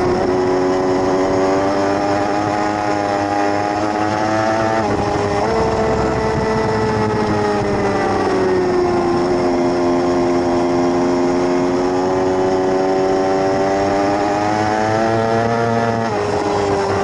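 600cc racing motorcycle engine at race pace. The revs climb and drop sharply on an upshift about five seconds in, then fall away gradually and hold fairly steady. They climb again and drop on another shift near the end.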